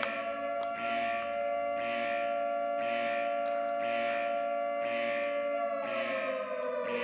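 A steady, ringing electronic tone with overtones, the film sound-design ear-ringing after a gunshot. A soft hissy pulse comes about once a second, and the tone sags lower near the end.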